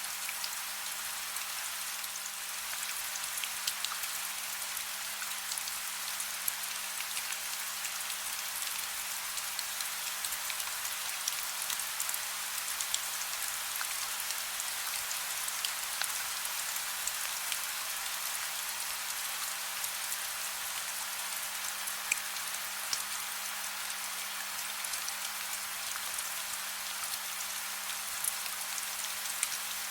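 Steady soft rain: an even hiss with many small, scattered droplet ticks. A faint low steady hum sits underneath.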